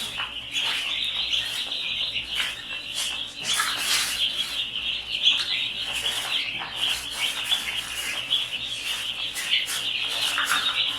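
A crowd of young chicks peeping nonstop in a dense, high chorus, with scattered scratching and rustling noises over it.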